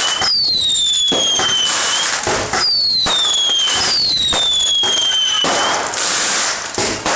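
Whistling fireworks: three loud whistles, each falling in pitch as it fades, one after another over a continuous crackling hiss, with a denser burst of crackle near the end.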